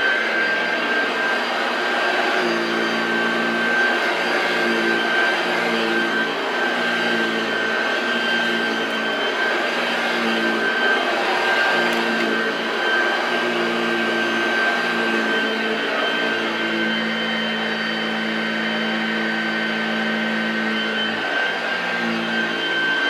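Hoover model 1348 lightweight upright vacuum cleaner running continuously, with a steady high motor whine over a lower hum that shifts in pitch every few seconds.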